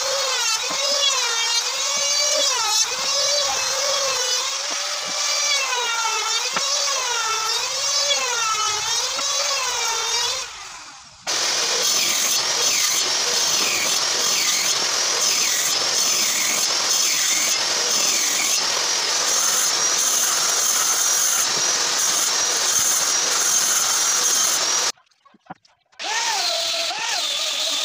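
Electric drill running in wood, its pitch dipping and rising about once a second as the bit bites and frees. Partway through it gives way to a rougher, noisier tool sound, then stops briefly near the end.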